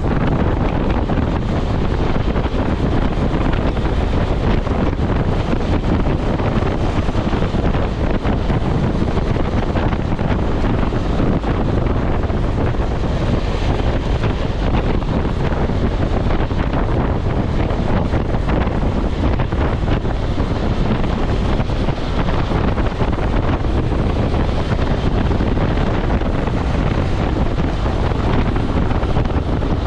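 Steady wind buffeting the microphone of a BMW F650GS motorcycle riding along, with the bike's engine and road noise underneath.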